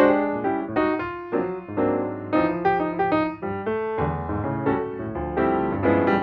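Solo piano playing a melody with chords, notes struck in quick succession.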